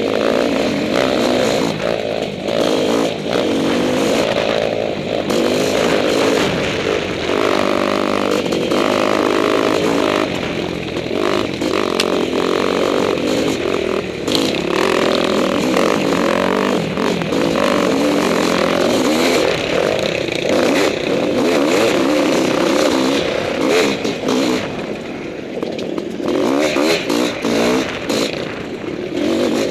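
Honda CR500 two-stroke single-cylinder dirt bike engine running under way, its pitch rising and falling with the throttle, with knocks and rattles over rough ground.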